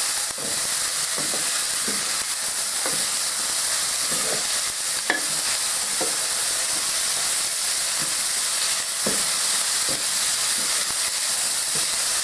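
Meat and chopped peppers sizzling in a frying pan, with a utensil scraping and knocking against the pan at irregular moments as they are stirred together.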